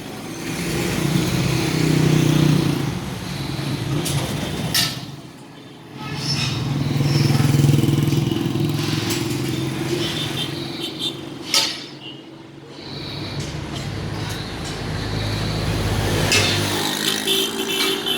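Three-wheeled motorcycle's engine running, its hum rising and falling twice as it picks up and eases off, with a couple of sharp clicks between.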